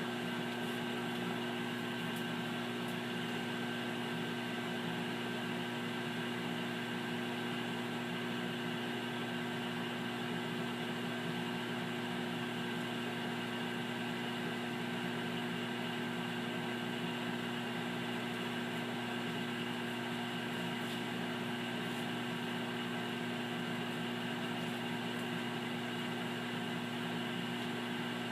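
Amana 2100-watt commercial microwave oven running: a steady hum over cooling-fan noise, a little louder than a household microwave.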